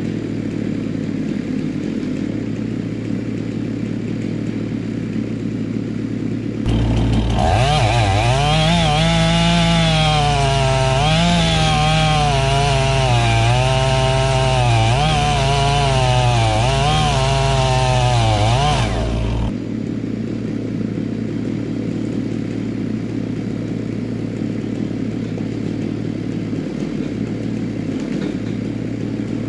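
A chainsaw opens up to full throttle about seven seconds in and runs for about thirteen seconds. Its pitch keeps sagging and recovering as it bites into the wood, then it cuts off suddenly. Before and after, an engine idles steadily.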